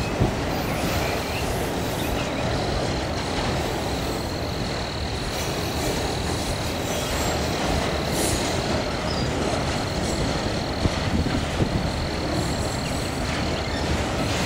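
Autorack freight cars rolling slowly past on the rails: a steady rumble of wheels on track with a few clicks, and a thin, steady high squeal over it.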